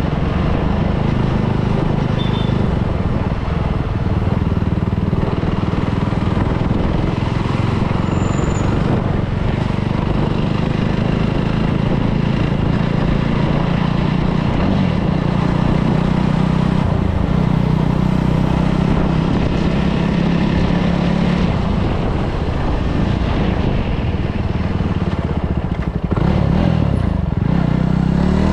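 Motorcycle engine running steadily at low revs, with a few quick rises and falls in pitch near the end.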